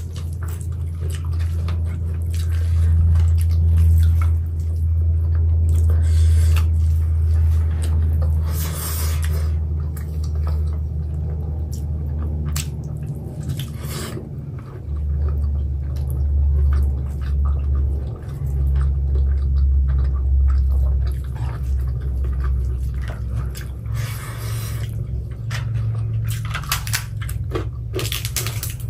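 Close-miked eating: chewing, with scattered short crunches and clicks as rice and curry are mixed and eaten by hand. A loud, steady low rumble runs underneath.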